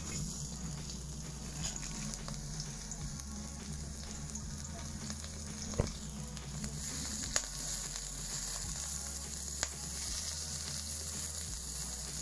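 Stir-fry vegetables sizzling steadily as they fry in hot oil in a wok, with three sharp clicks in the second half.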